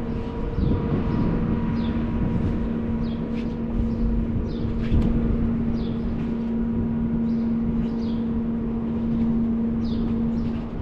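Car engine idling with a steady hum over a low rumble. Short high chirps recur about once a second.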